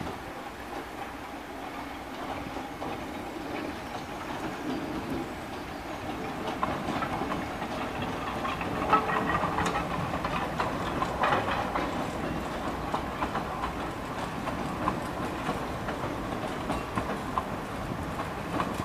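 A narrow-gauge train of locomotives and passenger coaches rolls slowly past. Its wheels click and clatter over the rail joints and pointwork, building to a peak about halfway through as the coaches go by, then easing off a little.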